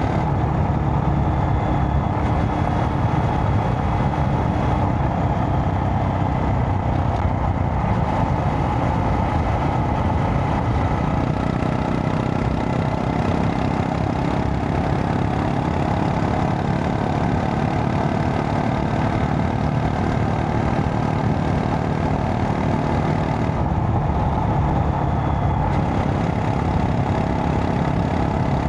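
Honda Monkey 125's single-cylinder engine running steadily, with no sudden events.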